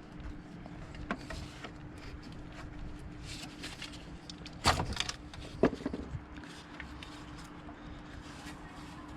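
Hand work on engine-bay parts: scattered clicks and rattles of hoses and fittings being worked loose, with two loud knocks about a second apart near the middle, over a faint steady hum.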